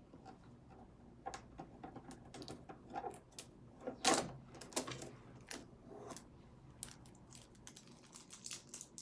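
Irregular clicks and knocks of hard objects being handled, with the loudest knock about four seconds in.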